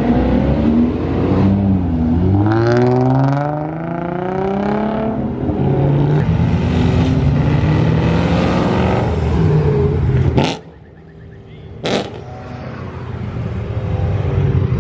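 Car engine revving hard during a burnout, its pitch climbing and falling again and again. About ten seconds in the sound cuts out suddenly, then builds back up.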